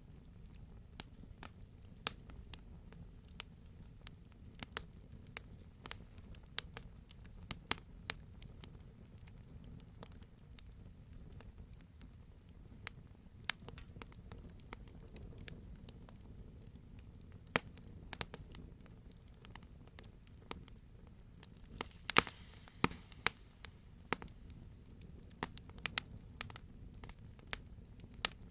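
Campfire crackling: irregular sharp pops and snaps of burning wood over a low steady rumble of the burn, with a brief flurry of louder pops about three-quarters of the way through.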